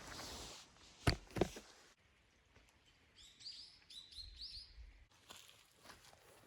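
A small bird singing a quick run of high chirps partway through, after two sharp knocks about a second in. Soft scuffing noises follow near the end.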